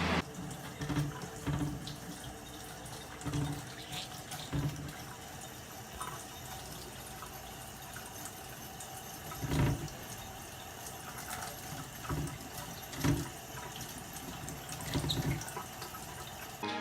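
Water running steadily, like a tap into a sink, with a few soft thumps, the loudest about ten seconds in.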